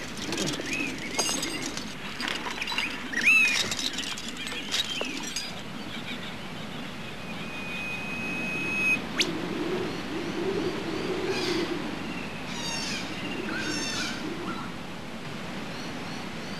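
Birds calling: whistled notes that glide up and down, one longer held whistle about halfway, and a run of quick repeated high calls later on.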